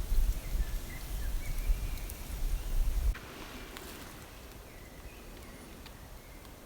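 A low rumble with a few sharp clicks, cutting off suddenly about three seconds in to quiet forest ambience with faint, high chirps of small birds.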